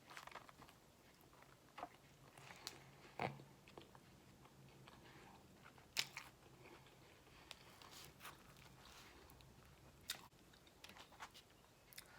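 Quiet close-miked mouth eating sounds: chewing a gyro flatbread sandwich, with scattered sharp bites and smacks. The loudest come about three and six seconds in.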